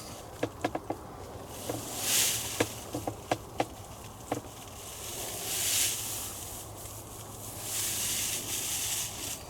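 Bursts of rustling in dry leaves, with scattered short sharp clicks and ticks through the first half.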